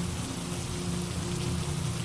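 Steady rain falling on a surface, an even hiss of drops, with a low rumble underneath.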